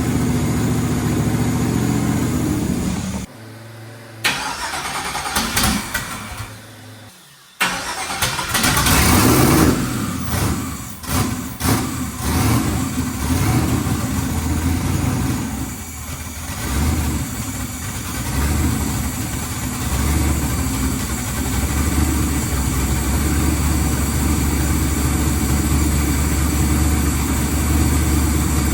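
Twin-turbo engine of a 1981 Chevrolet Malibu running, dropping away sharply about three seconds in, then coming back loud with a few revs rising and falling in pitch before settling into a steady idle.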